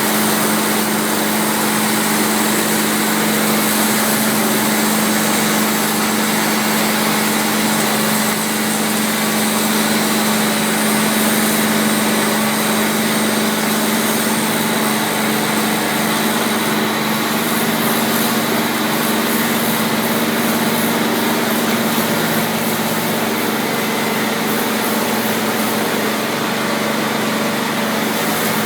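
Taiga OS-1 electric log-rounding machine running steadily: a constant hum with an even rushing hiss over it.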